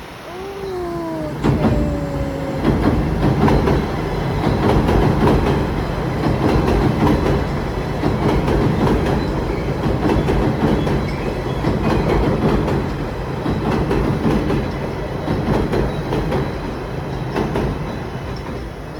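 A train passing close by: a steady loud rumble with the rapid clatter of wheels on the rail joints, fading a little near the end. It is opened by a short horn note that falls in pitch.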